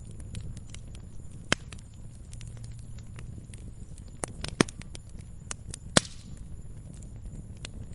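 Wood fire in a fireplace crackling: irregular small clicks and pops, with sharper pops about a second and a half in, twice around four and a half seconds, and once about six seconds in, over a low steady rumble of the flames.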